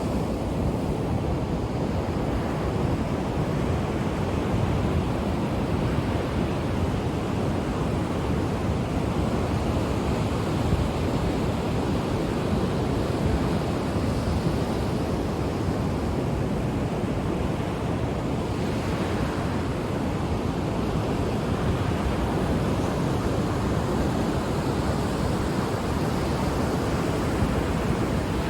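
Ocean surf: steady, dense rushing of waves breaking on the shore, with gentle swells of brighter hiss as waves wash in, and some wind rumble on the microphone.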